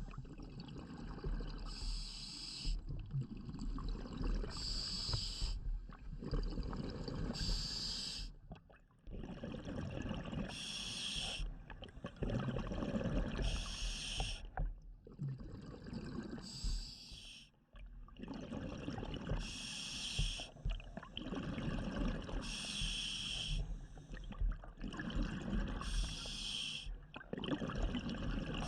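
Scuba diver breathing through a regulator underwater: a short hissing inhale about every three seconds, each followed by a longer burst of exhaled bubbles.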